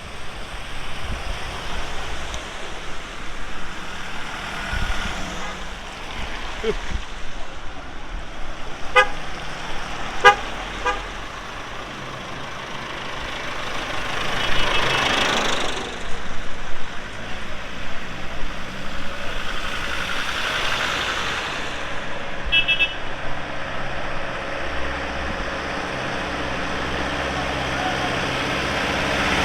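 Tractors driving past one after another, engines running, with two louder passes in the middle. Short horn toots sound about nine and ten seconds in, and again briefly later.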